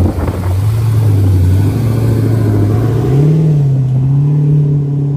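Car engine running steadily under way. About three seconds in its pitch rises and then holds at the higher speed.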